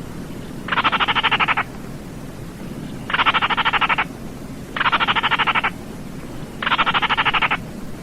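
Baillon's crake calling: four dry, fast rattles, each just under a second long and made of rapid pulses, spaced about two seconds apart.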